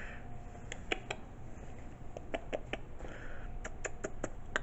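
A series of light, irregular clicks and taps, about ten over a few seconds, some in quick pairs and threes.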